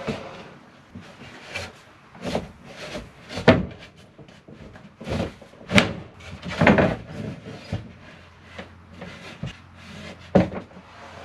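Irregular knocks and clunks of wooden pieces being handled and set down, a dozen or so uneven strikes with louder ones spread through.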